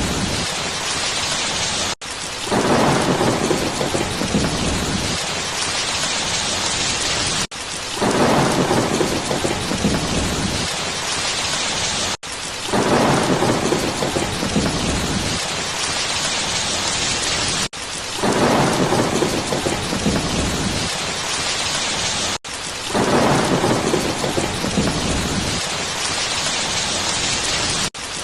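Steady heavy rain with a low rumble of thunder rising about every five seconds, each one right after a brief dropout in the sound, like a short rain-and-thunder recording played on a loop.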